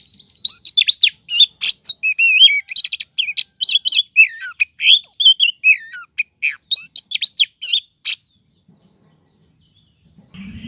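Oriental magpie-robin (kacer) calling in a rapid run of varied chirps, slurred whistles and clicks. These are the soft 'pemanis' calls of a female, used as a lure to draw in males. The calling stops about eight seconds in.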